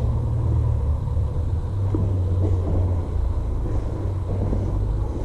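A steady low rumble with a few faint knocks and taps scattered through it.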